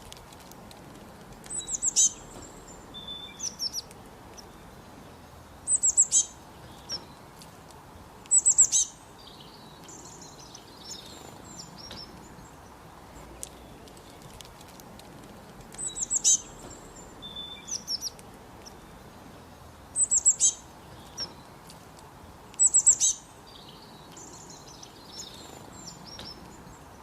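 A songbird singing short phrases of quick, high-pitched notes, one burst every two to four seconds, over a steady background hiss.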